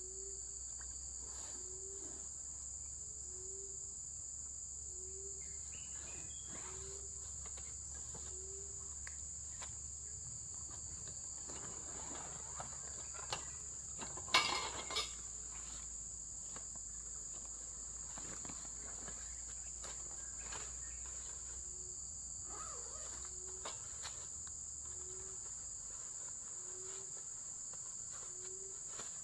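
Insects trilling steadily at a high pitch, with a short low note repeating about once a second for the first several seconds and again near the end. A brief clatter of clicks about halfway through is the loudest sound.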